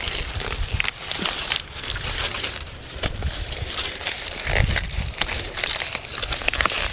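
Dry sweetcorn plants rustling and crackling as cobs are twisted and pulled off the stalks, with many short clicks and snaps throughout.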